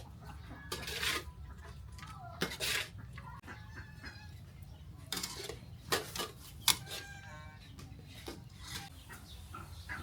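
Chickens clucking in short calls, with scattered sharp knocks and clatters over a steady low background.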